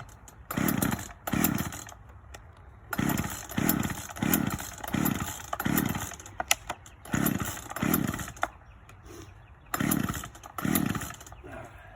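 Old two-stroke chainsaw being pull-started from cold with the choke out: about eleven short, sharp pulls of the recoil starter in four runs, each a brief burst of cranking. The engine does not catch, because the saw has not been run in a long time.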